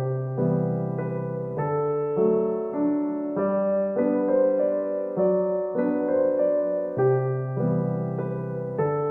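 Gentle solo piano music: a soft piece moving through slow, sustained chords.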